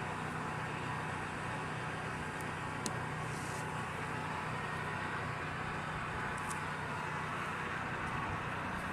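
Steady buzzing of many honey bees around an opened hive, with a faint tick or two.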